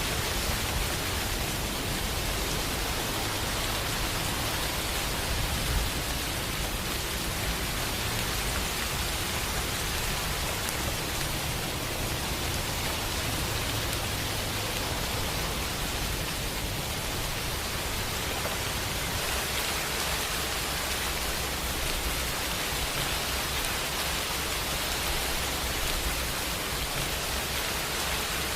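Steady, even rain, a continuous hiss with no breaks.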